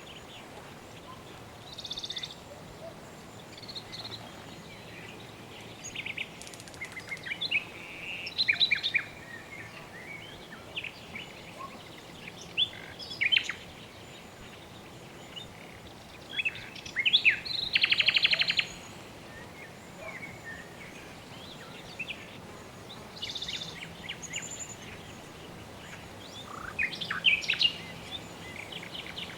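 Birds chirping and calling at irregular intervals over a steady background hiss, with a loud, fast trill a little past the middle and a burst of calls near the end.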